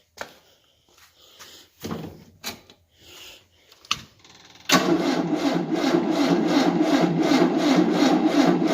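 1988 Tennant 255 sweeper's engine cranked over by its starter on a jump booster, a steady rhythmic churning of about five pulses a second that starts about five seconds in and lasts about four seconds without catching: it still won't start. A few light clicks and knocks come before it.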